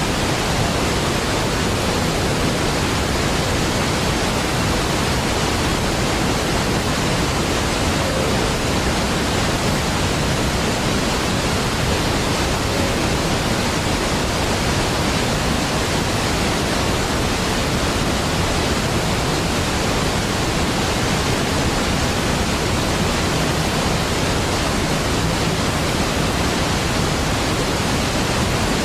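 Large waterfall: a steady, even rush of falling water spread from deep to high, with no change.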